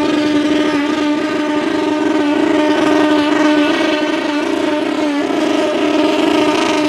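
Small pulling tractor's engine running flat out under load during a pull. The pitch holds high and steady, with a few brief dips.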